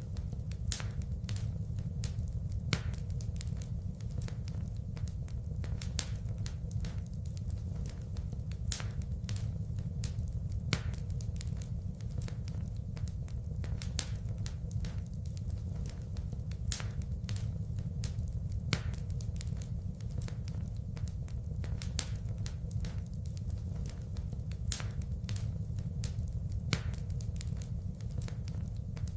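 Wood fire burning in a fireplace: irregular crackles and sharp pops over a steady low rumble, with the loudest pops coming about every two seconds.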